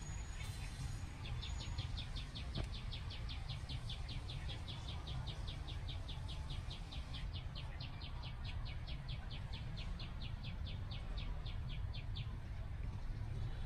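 An animal chirping outdoors: short high chirps repeated evenly about four to five times a second, stopping near the end. A steady low rumble runs underneath.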